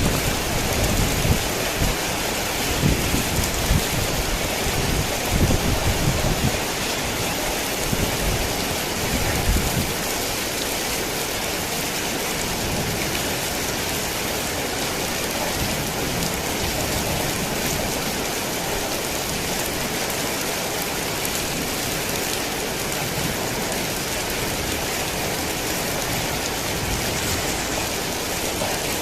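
Heavy rain pouring steadily, with a low rumble of thunder in the first several seconds that dies away about ten seconds in.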